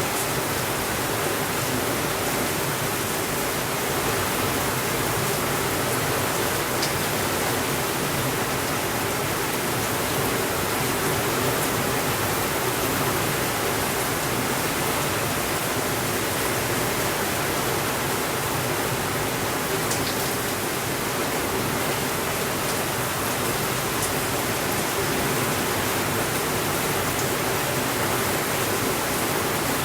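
Steady rainfall, an even, unbroken hiss, with a few faint sharp ticks now and then.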